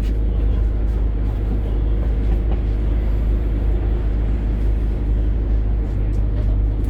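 A Scania K310UD double-decker bus's engine and drivetrain running, a steady low rumble heard from inside the moving bus.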